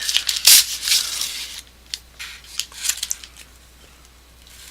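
Rustling and crinkling of food packaging being handled, dense for the first second and a half, then a few scattered crackles.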